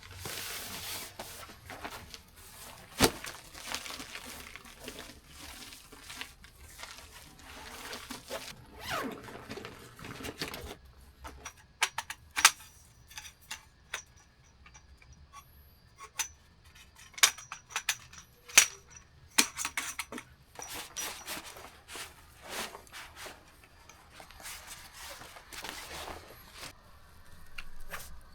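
Scattered clicks, knocks and clinks of objects being handled, with rustling in between and a few sharper taps.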